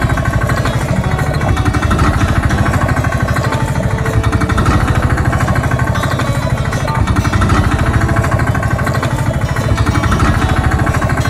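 Road-roller engine running with a steady, rapid chugging over a deep rumble.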